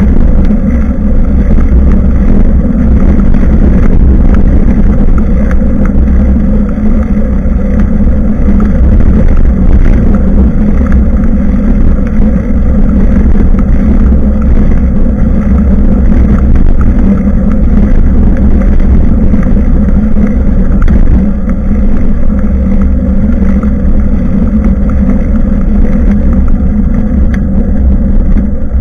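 Steady, loud low rumble of wind and road vibration picked up by the built-in microphone of a rear-facing action camera on a moving bicycle, with occasional faint clicks from bumps.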